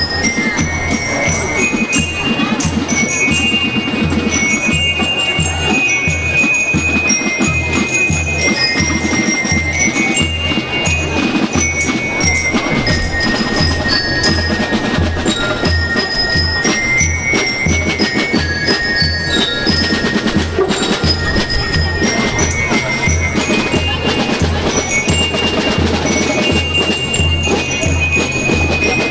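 A school rhythm band playing: bell lyres carry a bright melody over a steady bass-drum beat of about two strokes a second, with snare and other percussion.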